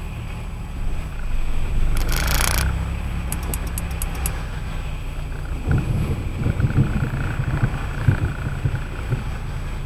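Car driving on a wet road on Firestone Firehawk Sport 01 tyres, with a steady low rumble of road and tyre noise. A short hiss comes about two seconds in, then a quick run of light ticks. The rumble turns rougher and more uneven past the middle.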